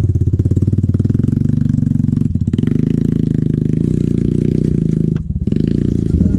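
Trail motorcycle engine running steadily at low revs, dipping briefly about five seconds in.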